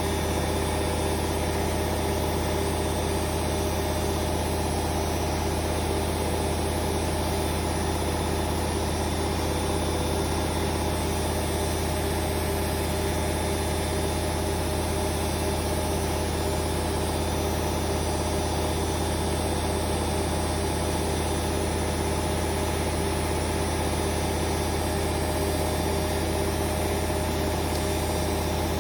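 Hoover Vision Dynamic front-loading washing machine in a 1400 RPM spin-only cycle, the drum spinning at a steady speed with a constant motor hum and whine.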